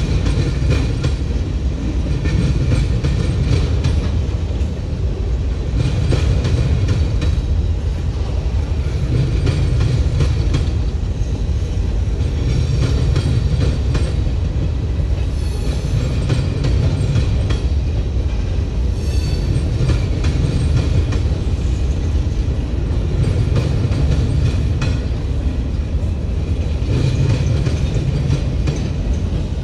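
Freight train cars rolling past in a steady heavy rumble, the wheels clicking over the rail joints, with two brief high squeaks about halfway through.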